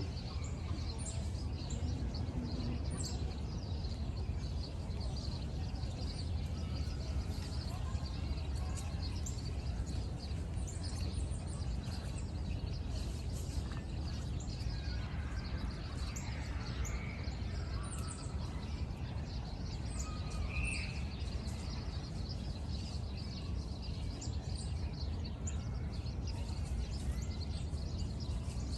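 Steady low rumble of wind buffeting the microphone, with faint scattered bird chirps.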